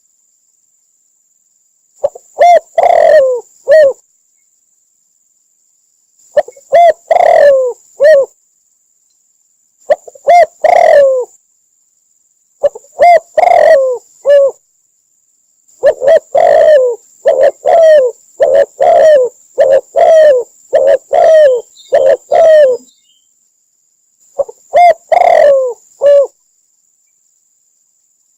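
Spotted dove cooing in repeated short phrases of a few falling coos each, with silent gaps of a second or two between phrases and a longer run of phrases in the middle. It is a call recording of the kind played as a lure for trapping doves.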